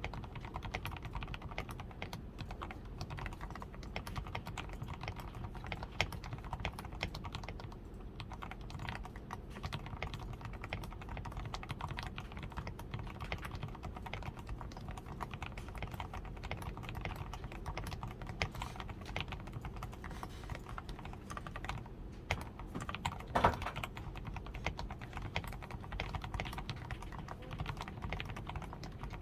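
Steady typing on a DAREU A87 Pro mechanical keyboard with fully lubed switches (Krytox 105), a tape-modded PCB, Poron foam in the switches, lubed stabilizers and XDA keycaps: a fast, continuous patter of keystrokes. One louder keystroke comes about three-quarters of the way through.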